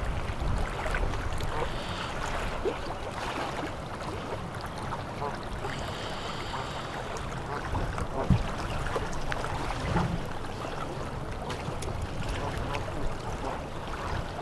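Wind buffeting the microphone over an outdoor rush of noise, with scattered small clicks and a brief high call about six seconds in.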